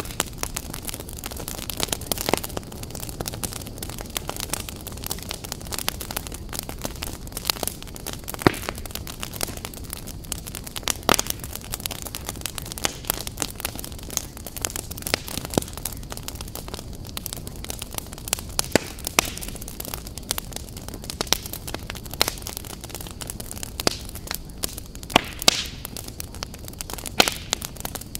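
Fire crackling: a steady hiss with frequent, irregular sharp pops and snaps, a few of them louder.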